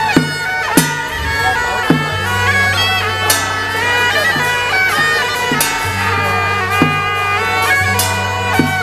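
Taiwanese temple ritual music: suona (double-reed shawms) playing a melody that slides between notes, with sharp percussion strikes every second or so over a steady low tone.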